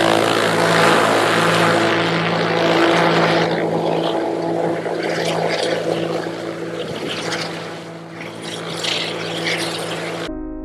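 Cessna 172 Skyhawk's piston engine and propeller running steadily, a loud droning hum over a wide rushing noise that eases off somewhat in the second half.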